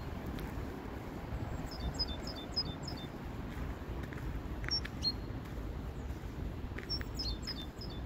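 Small birds chirping: a quick run of short, high chirps about two seconds in, a couple more midway, and another run near the end, over a steady low rumble of wind on the microphone.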